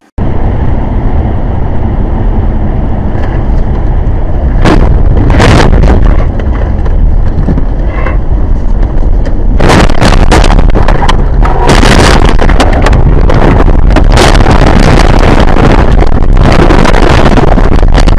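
Very loud vehicle and road noise picked up by a dash camera's microphone, cutting in suddenly, with a couple of sharp knocks about five seconds in and a dense run of knocks and bangs through the second half.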